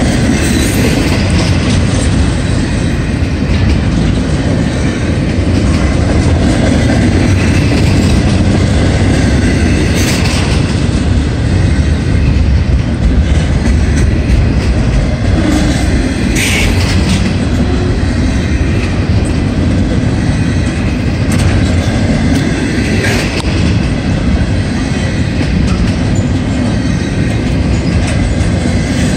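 Double-stack intermodal well cars rolling past at speed: a loud, steady rumble and clatter of steel wheels on rail. A few brief sharp noises stand out about 10, 16 and 23 seconds in.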